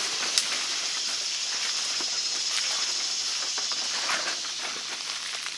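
Footsteps and brush rustling as people walk through wet swamp undergrowth, irregular crackles over a steady high-pitched hiss.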